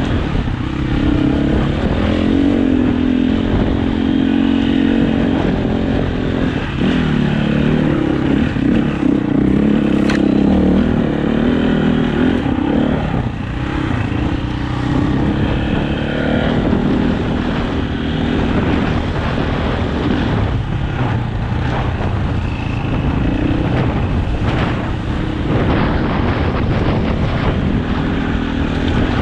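Dirt bike engine running hard while being ridden, its note rising and falling as the throttle is opened and closed.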